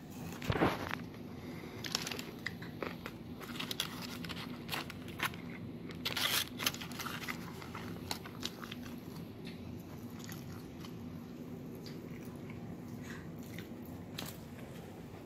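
Close-up biting and chewing of soft tacos, with scattered crunches and wet mouth clicks, the loudest about half a second in and about six seconds in; the foil wrapper crinkles as the taco is handled. The eating sounds thin out in the second half.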